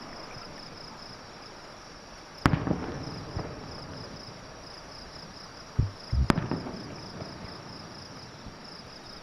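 Fireworks shells bursting at a display: a sharp bang a couple of seconds in, then a low thump and another bang close together a little after the halfway point, each trailing off in a rumbling echo. Between them insects chirp in a steady, high pulsing trill.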